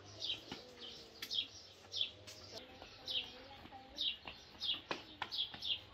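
Small bird chirping over and over, short high notes that slide downward, about two a second.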